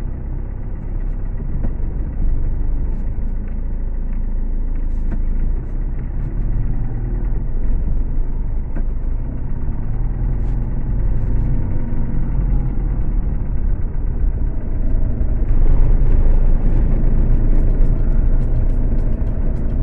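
Car driving on a road: steady low engine and tyre rumble, growing louder for a couple of seconds near the end.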